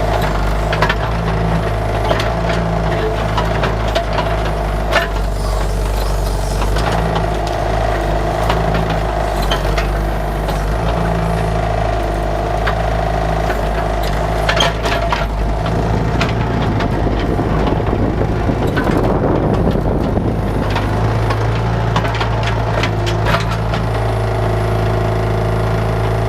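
Bobcat 331 mini excavator's diesel engine running steadily under digging load, with scattered knocks and cracks of the bucket working through bushes and roots. The engine note shifts about two-thirds of the way through.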